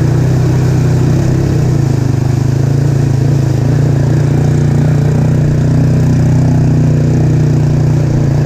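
Yamaha Moto-4 225 ATV's single-cylinder four-stroke engine running at a steady, even speed, loud and close.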